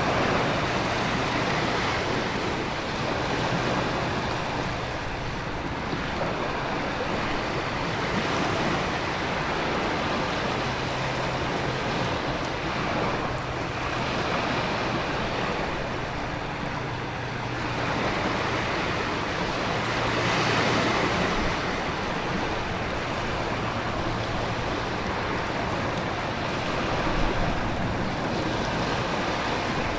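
Storm ambience of heavy rain and wind over crashing ocean waves: a continuous rushing roar that swells every few seconds.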